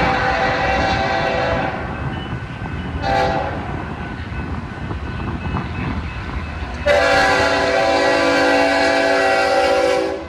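Locomotive air horn sounding a chord of several notes: a long blast that ends about two seconds in, a short blast about three seconds in, and another long blast from about seven seconds in that stops just before the end, over the steady rumble of a passing train.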